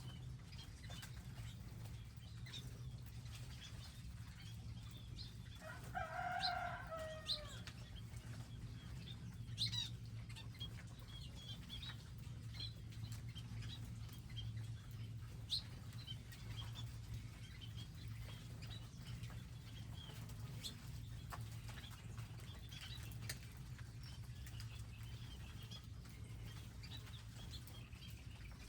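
Wild birds at garden feeders: scattered high chirps and wing flutters, with one louder, drawn-out call about six seconds in, over a steady low hum.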